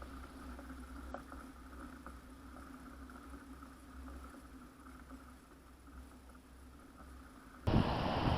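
A steady low hum with two faint steady tones above it and a few faint clicks. Near the end it cuts abruptly to louder rushing noise, like wind on the microphone.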